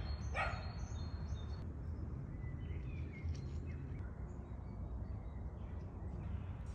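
Outdoor ambience: a steady low rumble with faint bird chirps, and two short calls in the first half second.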